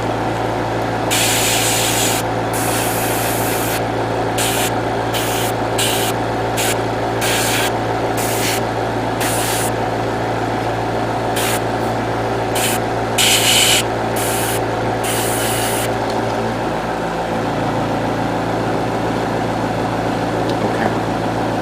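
Airbrush spraying yellow paint in a series of short hissing bursts, about fifteen over the first sixteen seconds, then stopping, over a steady motor hum.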